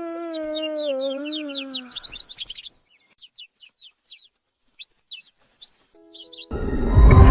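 Parrot chirping in quick high runs, at first over a long, wavering, falling wail, then in scattered single chirps. About six and a half seconds in, a loud crash-like burst of noise cuts in.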